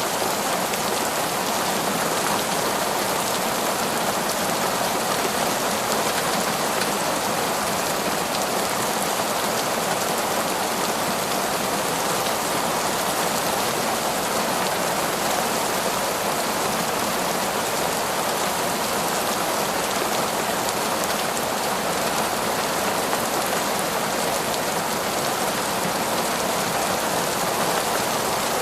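Heavy torrential rain falling steadily in a forest, a dense even hiss of drops on foliage and ground with no let-up.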